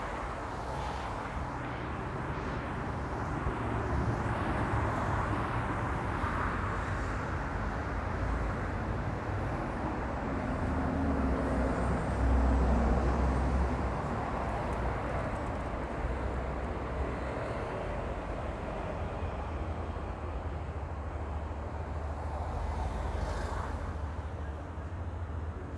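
Outdoor street ambience: a steady wash of traffic noise with a low rumble that swells loudest about halfway through.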